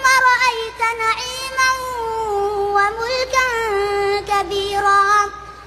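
Quran recitation chanted melodically in a high-pitched voice, with long held notes and ornamented turns. The voice breaks off about five seconds in.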